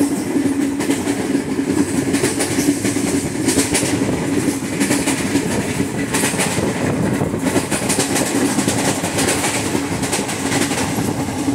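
Indian Railways ICF passenger coach running at high speed: steady rumble and clatter of wheels on the track, with a constant low hum and a fast, continuous knocking from the wheels, the pounding of a flat wheel.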